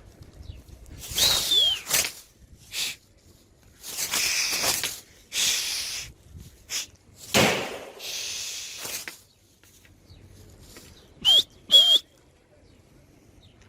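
Young homing pigeons' wings flapping in several rustling bursts, with short high whistles, a pair of them near the end.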